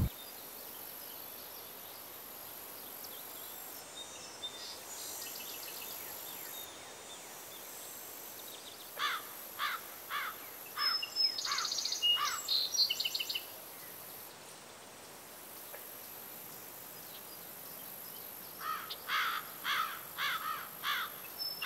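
Small birds calling over a steady faint high hiss: bursts of quick downward-sliding chirps mixed with high trilling notes, once about nine seconds in and again near the end.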